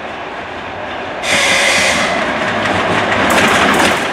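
VL40U electric locomotive and its passenger train approaching: a steady rolling rumble that jumps louder about a second in. Sharp clacks of wheels over rail joints come near the end.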